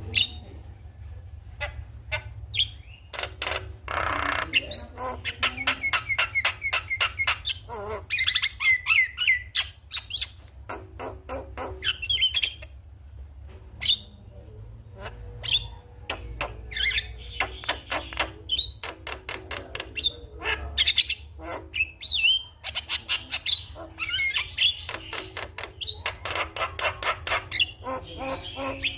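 Javan myna (jalak kebo) singing: rapid runs of repeated chattering notes mixed with harsh squawks and short whistled glides, over a steady low hum.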